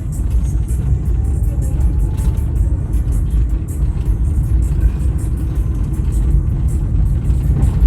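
Steady low rumble of a car travelling along the road, engine and road noise heard from inside the vehicle.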